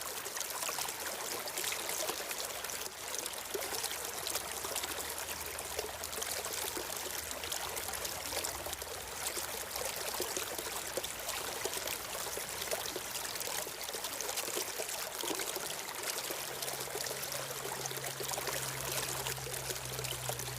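A stream of water flowing steadily, an even trickling rush. A faint low hum joins in for the last few seconds.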